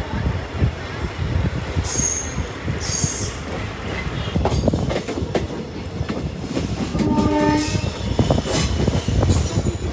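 Passenger train running along the track, a steady rumble with the irregular clatter of wheels over rail joints. Two brief high-pitched squeals come about two and three seconds in, and a short horn note sounds about seven seconds in.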